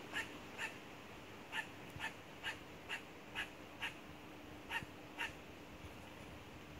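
A crow calling in a rapid series of short, harsh calls, about two a second, in groups with brief pauses between them, the typical alarm calling of a crow under attack by a buzzard. A faint steady low hum lies underneath.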